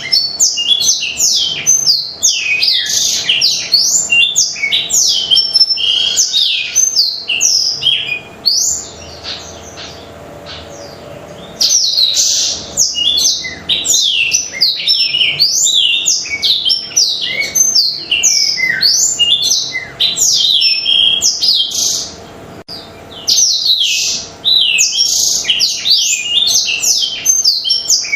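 Blackthroat (black-throated canary) singing a fast, continuous stream of high chirps and trills, breaking off twice for a few seconds, a third of the way in and again near the end.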